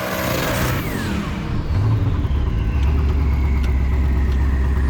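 Car engines running: a burst of wide engine noise fades away over the first second and a half, then a steady low-pitched idle takes over.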